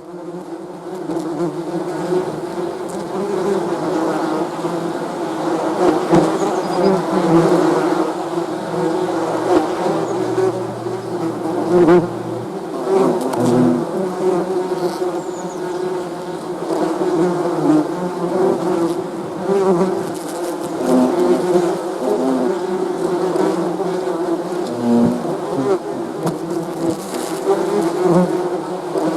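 Many bees buzzing together: a dense, steady hum of overlapping wingbeats that wavers in pitch as individual bees pass, fading in at the start.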